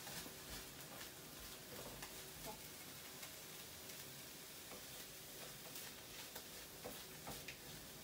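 Faint sizzling of onion and garlic cooking in a wok, with scattered light crackling ticks.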